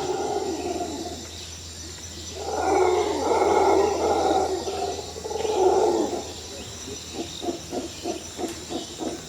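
Radio-controlled scale crawler's electric motor and gear drivetrain straining in three throttle bursts of a second or two each, then a quicker run of short pulses, about three or four a second, near the end.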